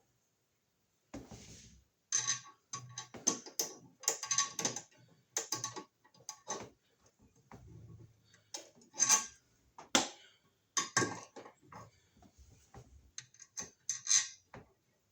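Irregular clicks, taps and rattles of small metal and plastic parts being handled: an electrical receptacle, its mounting screws and wire nuts being worked into a surface-mount Wiremold box.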